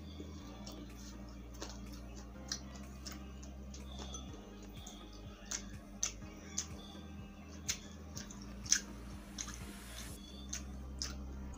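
Close-miked eating: chewing of pork lumpia and squid adobo with irregular sharp mouth clicks, over faint background music with a low bass line.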